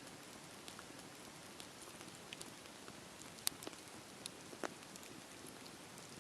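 Campfire burning with a steady soft hiss and scattered sharp crackles and pops from the wood, the loudest about three and a half seconds in.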